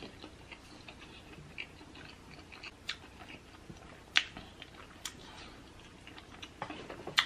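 Close-up wet chewing and mouth sounds of a person eating deshelled seafood boil, broken by a few sharp clicks, the loudest about four seconds in and near the end.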